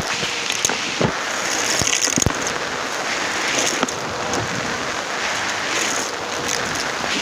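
Numatic James vacuum cleaner running, heard through a microphone mounted on the machine, with a steady suction hiss and a faint motor hum. Grit and debris crackle and tick irregularly as they are sucked through the hose.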